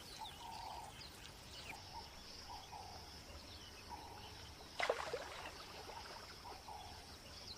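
Faint natural outdoor ambience with a steady high insect hum and soft, repeated low calls. About five seconds in there is one brief, sharper sound.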